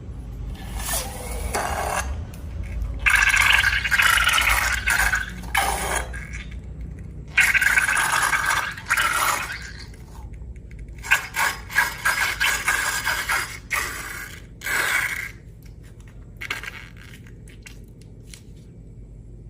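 Slime being scraped and mixed by hand in a container, in several rough bouts of scraping with short pauses between them, dying down in the last few seconds.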